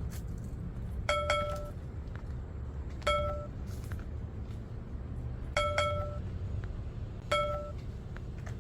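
A kendama ball landing on the toy's cups in four catches about two seconds apart, each a short ringing clink; the first and third are doubled.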